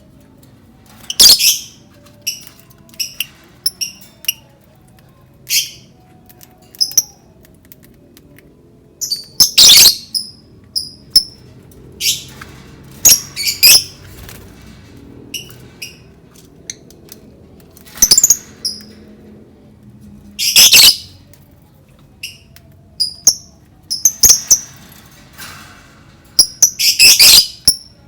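Lovebird calling: sharp, shrill chirps and squawks, some single and some in quick chattering clusters, coming irregularly with short gaps between, over a faint low background hum.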